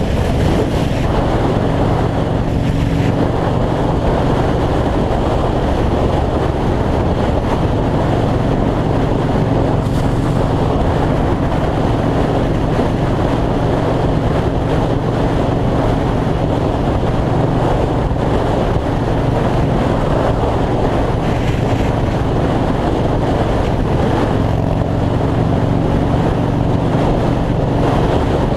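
Yamaha Road Star V-twin motorcycle engine running steadily at highway cruising speed, with heavy wind rushing over the microphone.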